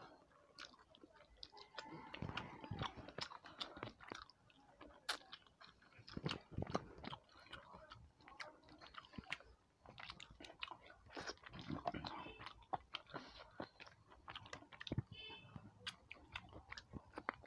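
A person chewing a mouthful of rice and fish curry close to the microphone: wet smacks and small clicks of the mouth in irregular bursts, with short pauses between bites.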